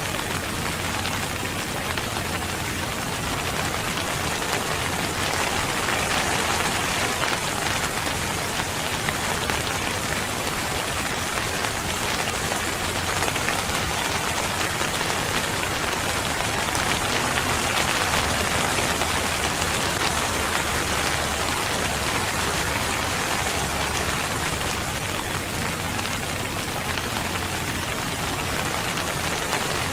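Steady rain falling, an even hiss of many drops on a surface with no let-up.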